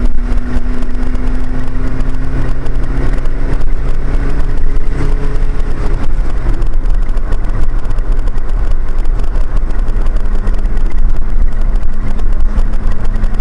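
A car driving on the road: a steady low rumble of engine and tyre noise, with an engine hum that holds one pitch for the first half and settles at a slightly different pitch later on.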